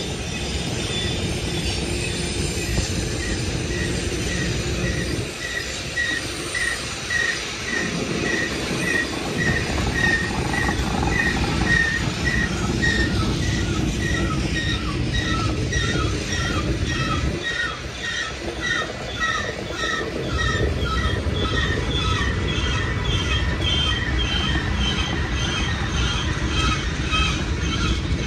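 A long freight train rolling past with a steady rumble of wheels on rail. Over it, the wheels give short, high-pitched squeals that repeat about twice a second as the cars go by.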